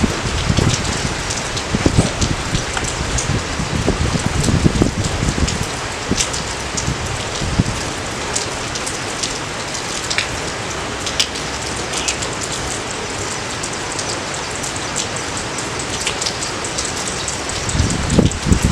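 Steady rain falling, with scattered sharp drop hits. Louder low rumbling surges come through in the first several seconds and again near the end.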